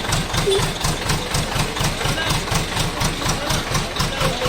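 An engine idling steadily with an even low throb, about five beats a second.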